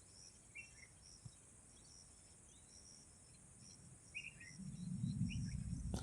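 Steady, high insect chirring with a few short, high chirps. A low rumble comes in about four and a half seconds in and is the loudest sound by the end.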